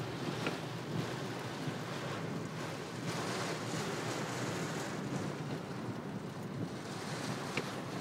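Steady rushing noise of a heavy rainstorm, rain and wind together, with wind buffeting the microphone.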